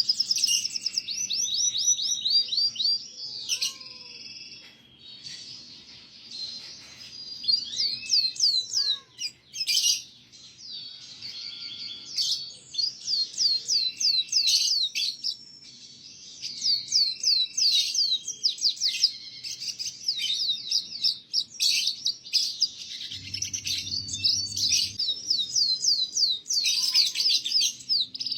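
Canary song: long, rapid trills of repeated down-sweeping chirps with short pauses between phrases, used as a masteran tutoring song for young canaries.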